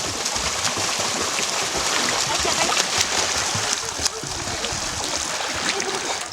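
Water running and splashing, with many small splashes and drips over a steady rush.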